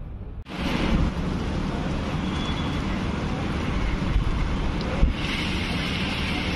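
Steady rain falling on corrugated metal roofs, an even hiss, with wind rumbling on the microphone. It cuts in abruptly about half a second in and shifts in tone about five seconds in.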